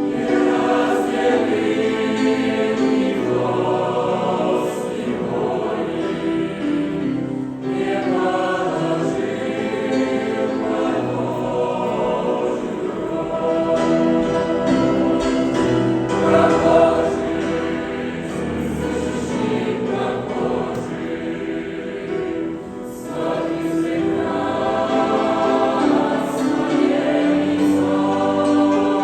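A choir singing a song, the voices holding long notes together.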